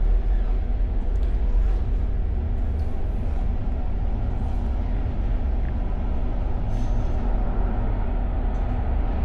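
Steady low rumble of the overnight sleeper train, heard from inside the cabin.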